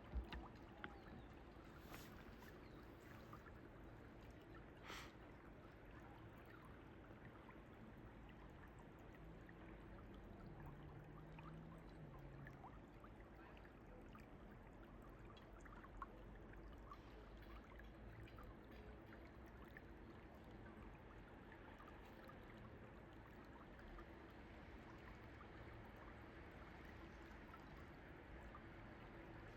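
Faint flowing stream: a steady, quiet watery hiss, with a few small clicks.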